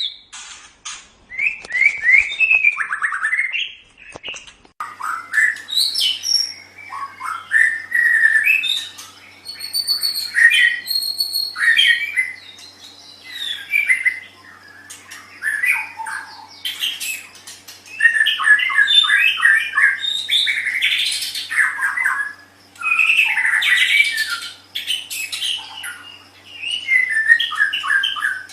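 White-rumped shama (murai batu) singing: varied phrases of gliding whistles and fast runs of repeated notes, separated by short pauses.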